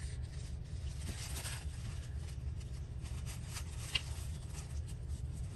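Paper rustling and sliding as a sheet is laid onto a glued board and smoothed down by hand, with a few light ticks, over a steady low hum.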